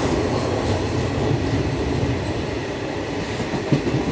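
Passenger train running along the line, heard from inside the coach at an open doorway: a steady rumble of steel wheels on the rails with a sharper knock near the end.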